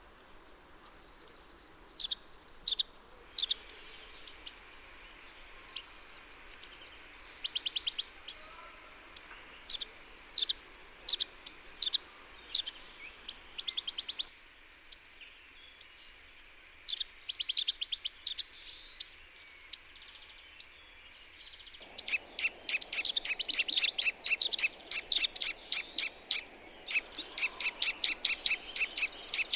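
Small garden songbirds calling: a busy run of high chirps, whistled notes and rapid trills, starting about half a second in, with a couple of short pauses.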